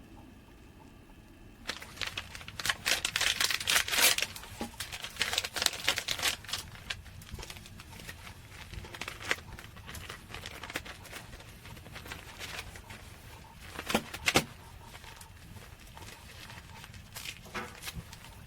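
Irregular crinkling and rustling with sharp crackles and clicks, busiest a couple of seconds in and again in a short burst about two-thirds through.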